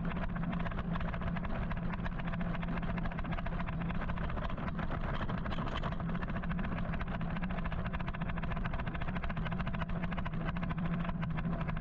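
Steady road and traffic noise heard while riding an electric motorcycle through city traffic, with a constant low hum underneath.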